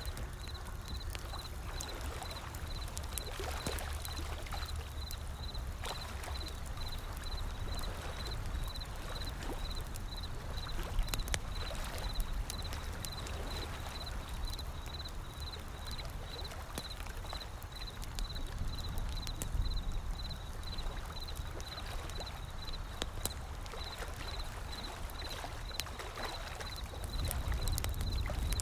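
Wood fire crackling with sharp, irregular pops over a low, steady rumble of ocean waves. A faint high-pitched pulse repeats about twice a second alongside.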